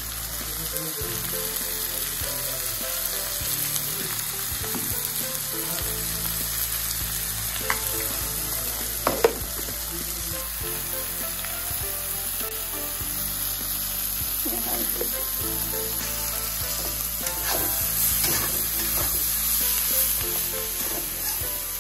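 Onions, green chillies and tomatoes sizzling in hot oil in a metal kadhai, stirred and scraped with a metal spatula. A couple of sharp clinks of the spatula against the pan, the loudest about nine seconds in.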